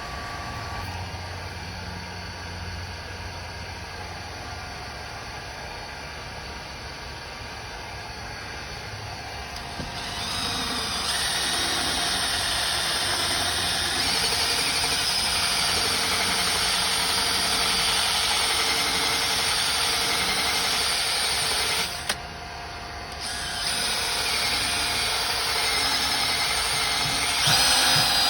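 A small electric power tool running steadily for long stretches, stopping for about a second and a half past the twenty-second mark and then starting again.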